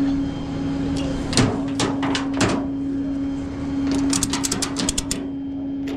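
A vehicle engine running with a steady hum, under sharp metallic clicks: a few single clicks, then a fast run of about eight a second near the end.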